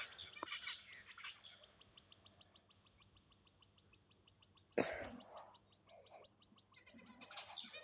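Faint soft chirping from pet king quails: a quick, even run of high ticking notes, with one short, louder sound just before five seconds in.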